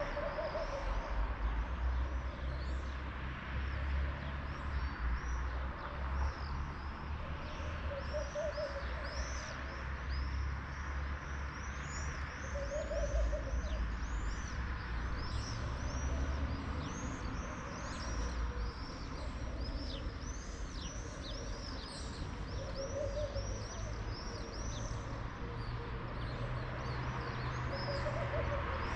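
Small birds chirping and singing continuously, with a low hooting call repeated about every four to five seconds, over a steady low rumble.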